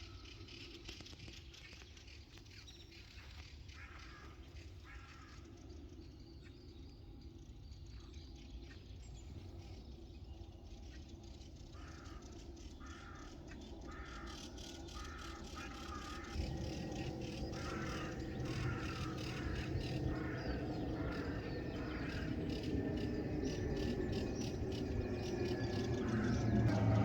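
Birds calling, including a run of short, repeated calls about once a second through the second half. A low rumble comes in about halfway and grows steadily louder.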